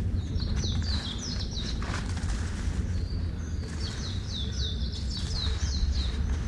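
A small songbird sings two quick runs of repeated high, falling chirp notes, about five notes a second, the second run starting about four seconds in, over a steady low rumble.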